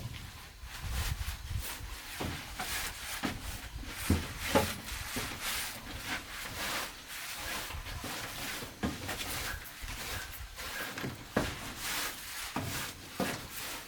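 Irregular light wooden knocks, taps and scraping, a few of them sharper than the rest.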